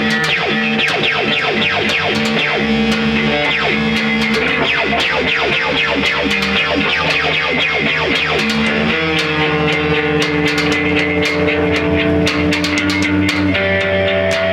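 A band playing instrumental rock music live, with guitar and bass over fast, steady percussive hits. The held guitar notes change to a new chord about nine seconds in.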